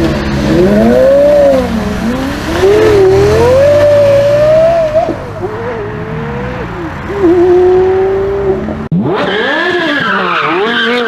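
Porsche Carrera GT's 5.7-litre V10 revving up and down repeatedly, its pitch rising and falling with each throttle blip and gear change. Near the end it cuts abruptly to another burst of V10 revs that sounds duller.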